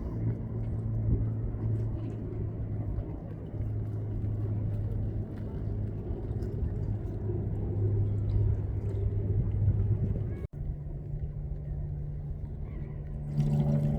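Low, steady engine drone. About two thirds of the way through it cuts off abruptly and resumes at a slightly higher pitch.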